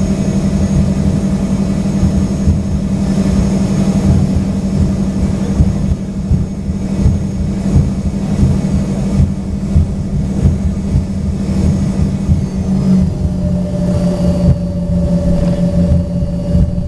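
Cabin noise inside an Embraer ERJ-135 with its rear-mounted Rolls-Royce AE 3007 turbofans running at low power: a steady low rumble under a constant hum. About 13 seconds in, the hum's pitch shifts slightly.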